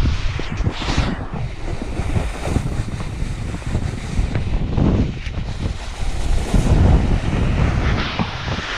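Wind buffeting the microphone of a camera carried down a slope on a snowboard, a gusting low rumble, with the hiss of the board's edge scraping over snow surging and fading.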